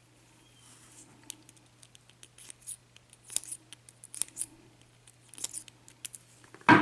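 Irregular light metallic clicks and scrapes of small hand tools working on a disassembled Assa pin-tumbler lock cylinder, coming several in quick succession at times.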